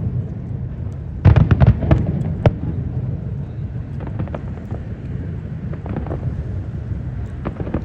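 Aerial fireworks bursting: a rapid cluster of sharp bangs about a second in, then scattered fainter pops over a steady low rumble.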